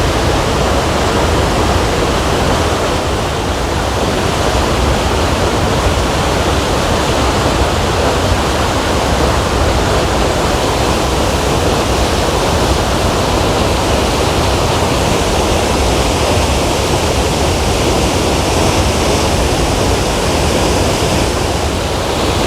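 Waterfall in heavy flow after a day of rain: a loud, steady rush of falling water with no breaks.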